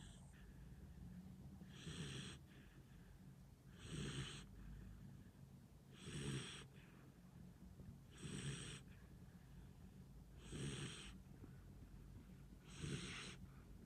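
Dog snoring faintly in its sleep: six short, raspy snores, evenly spaced about every two seconds.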